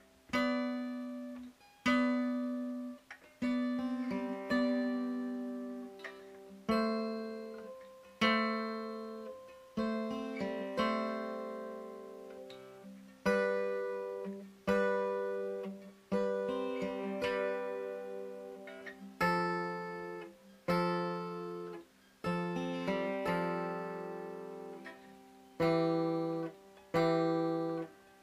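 Background music on acoustic guitar: chords struck about every one and a half seconds, each left to ring and fade.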